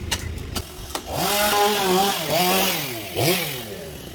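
Two-stroke chainsaw running through teak wood. It revs up about a second in, and its pitch dips and climbs again several times as the chain bites into the cut and frees, then eases off near the end.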